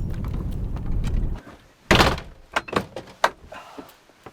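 Truck camper door shut with one loud thunk about two seconds in, followed by several lighter clicks and knocks. A steady low rumble cuts off just before the door shuts.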